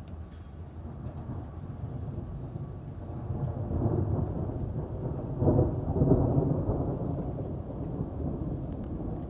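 Rolling thunder over steady rain: the rumble builds from a few seconds in, peaks about two-thirds of the way through, then slowly dies away.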